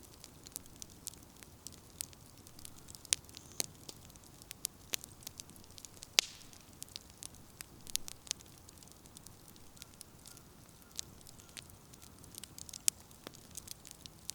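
Wood fire crackling: irregular sharp pops and snaps of burning firewood over a soft hiss, with the loudest pops about six seconds in and again near the end.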